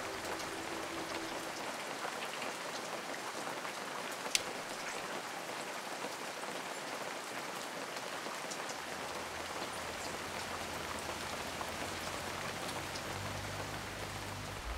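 Steady rain falling, an even hiss of drops, with one sharp tap about four seconds in.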